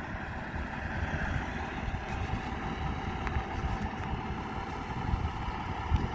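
Low, steady rumble of a vehicle engine, with gusts buffeting the microphone.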